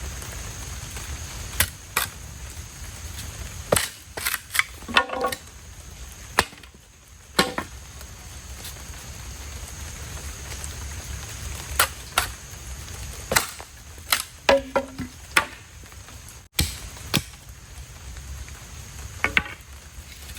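Blade chopping wood: sharp chops and knocks at irregular intervals, some in quick clusters, over a steady low rumble.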